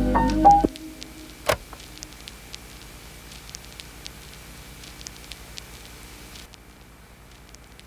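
Piano music ends under a second in, followed by faint crackling with scattered small ticks and one sharper click.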